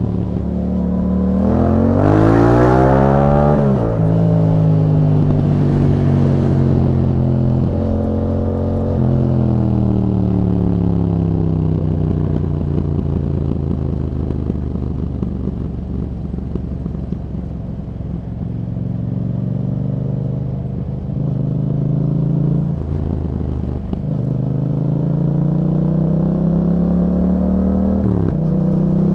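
Yamaha MT-07's 689 cc parallel-twin engine through an Akrapovič exhaust fitted with a Yahom dB killer, heard from the bike while riding. The revs rise hard about two seconds in and are cut off by a gear change, then fall away slowly as the rider eases off, and climb steadily again until a quick shift near the end.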